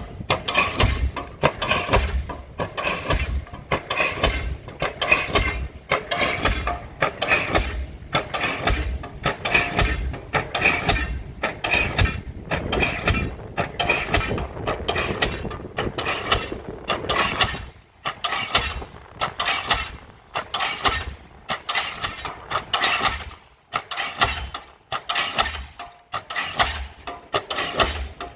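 Diesel pile hammer driving a pile: a steady rhythm of sharp, loud blows that repeats without pause.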